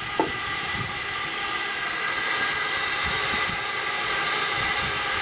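Half-scale Burrell Gold Medal steam tractor's safety valve blowing off at 200 psi: a steady hiss of escaping steam, with a few faint knocks underneath.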